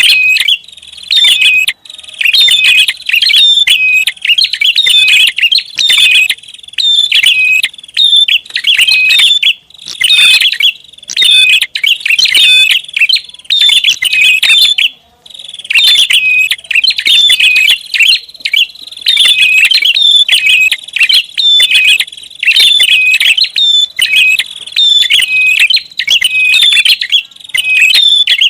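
Prinia (prenjak) calling loudly and without let-up, a fast, busy run of sharp repeated chirps, as used as a lure call to draw in wild prinias. There is one short break about halfway before the chirping resumes.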